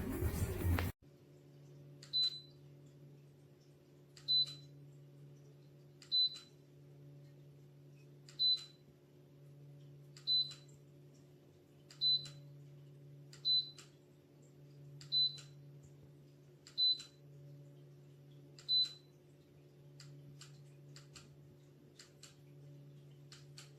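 Electric fireplace heater's control beeping once per button press, about every two seconds, about ten times, over a low steady hum. Near the end come a few quicker clicks with no beep.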